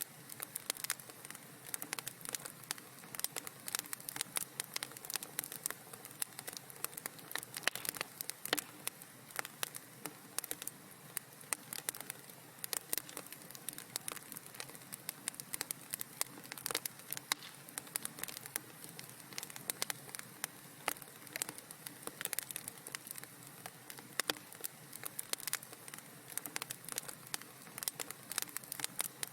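Wood fire crackling in a fireplace: a steady stream of small sharp pops and snaps over a soft hiss.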